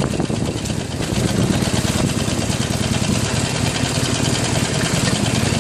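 Harley-Davidson Iron 883N's air-cooled V-twin engine running steadily.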